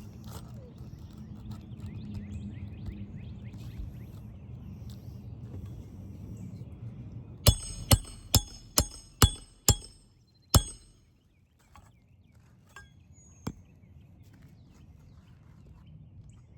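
Hammer striking a roof snake to drive a roofing nail under a lifted asphalt shingle: six quick ringing metal-on-metal blows about half a second apart, then one more after a short pause. The nail does not set properly.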